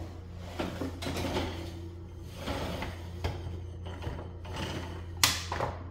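Items being shuffled and knocked into place on a fridge shelf: a string of clatters and knocks, the sharpest a little after five seconds in, over a steady low hum.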